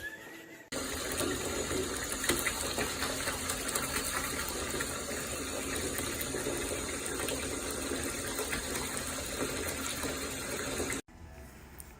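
Steady rush of running water, starting abruptly about a second in and cutting off just before the end.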